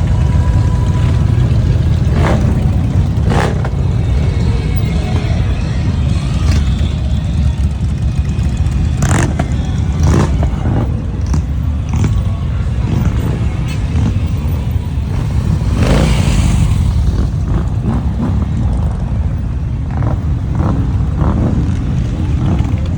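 Motorcycle engines running with a steady low rumble, with a few short sharp clicks and knocks scattered through.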